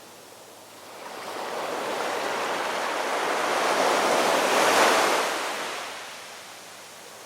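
One ocean wave rolling in and breaking: the surf's hiss swells from about a second in, peaks near five seconds, then fades away, over a soft steady wash of the sea.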